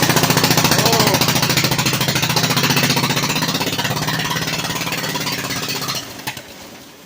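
Ford 70 tractor's engine running on its first start after a head gasket repair, with the choke on: a loud, rapid, even firing. About six seconds in it dies and winds down to a stop.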